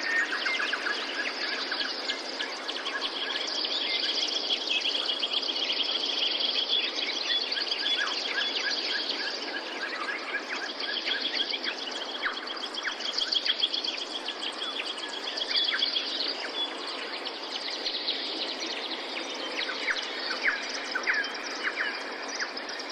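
Many small birds chirping and trilling over a steady rush of water.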